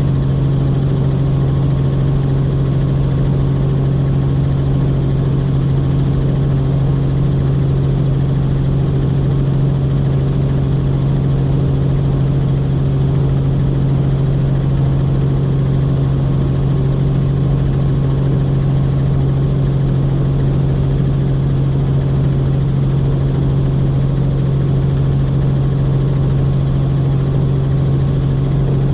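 Helicopter in flight heard from inside the cabin: a steady, loud rotor and turbine drone with a strong low hum that does not change.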